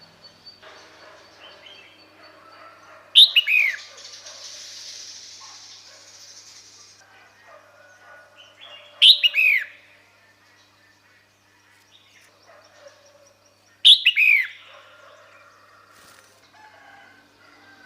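Female red-whiskered bulbul calling: three short, loud calls about five seconds apart, each a quick note or two sweeping sharply down in pitch. It is a call used to lure males.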